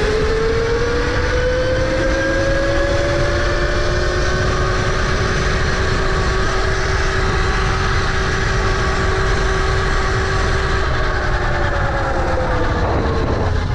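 Tuttio electric dirt bike's motor whining under full throttle, rising in pitch over the first few seconds as the bike speeds up, holding steady at top speed, then falling near the end as it slows. A steady low rumble runs underneath.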